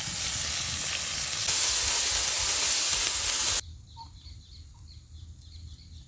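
Hamburger patties sizzling on a hot wood-stove griddle: a loud steady hiss that grows louder about a second and a half in, then cuts off abruptly after about three and a half seconds, leaving faint chirping.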